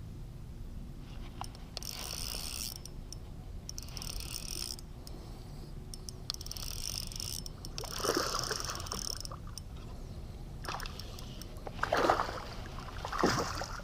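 A kayak moving through water: rhythmic swishes about every two seconds, then a few louder splashes in the second half.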